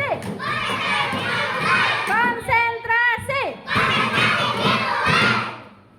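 A group of children shouting together in unison, in three loud call-outs that fade away near the end.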